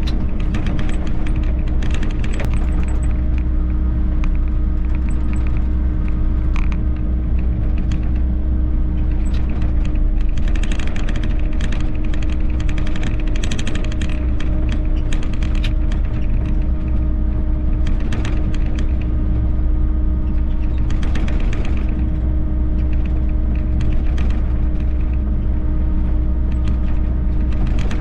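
Volvo EC60E mini excavator running steadily, with a constant low rumble and hum, and recurring spells of scraping and clatter as it works stone dust.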